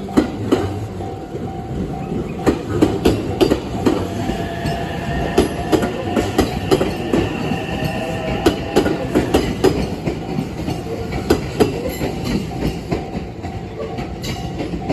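A train passing over a level crossing, its wheels clattering over the rail joints in a fast, uneven rhythm. The crossing's warning bell rings in repeating pulses, heard most clearly near the end. A steady high whine joins in through the middle.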